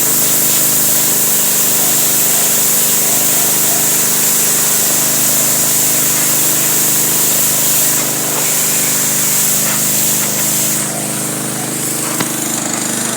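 Loud, steady running of a motor-driven machine: a constant hum under an even hiss. It eases slightly and changes texture about eleven seconds in.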